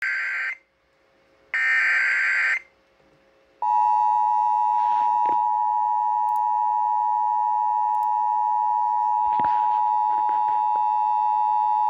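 Emergency weather alert signal: two short bursts of screeching digital header data, then a steady alert tone held for about eight seconds. It announces a severe thunderstorm warning.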